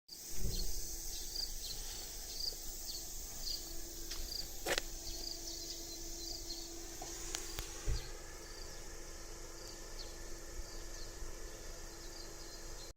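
Insects chirping: short, high chirps repeating about once or twice a second, fading out after about eight seconds, over a faint steady hum, with a single sharp click about five seconds in.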